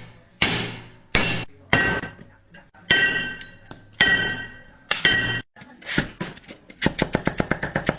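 A series of sharp taps or clinks on a hard object, each ringing briefly, about one a second, followed near the end by a fast run of clicks, about ten a second.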